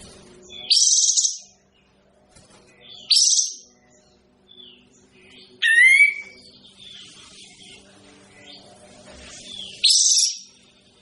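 Kapas tembak songbird giving short, loud, harsh high calls four times, one with a quick run of falling notes, over a faint steady low hum.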